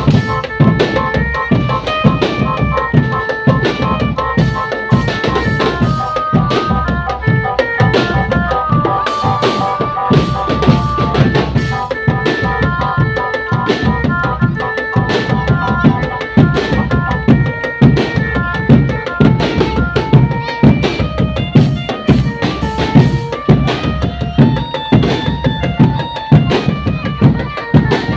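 Marching drum band playing: bass drums and snare drums beating a steady, busy rhythm under a stepped melody line.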